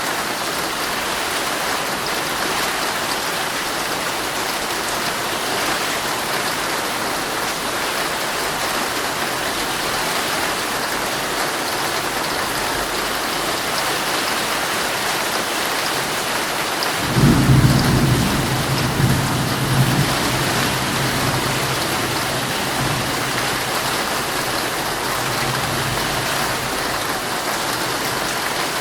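Heavy rain falling steadily on a tent. A little past halfway a roll of thunder breaks in with a sudden low rumble that swells briefly and dies away over a few seconds.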